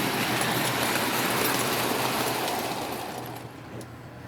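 Lionel 390E standard gauge toy locomotive and cars running on three-rail track: a steady rumble and rattle that fades away about three seconds in.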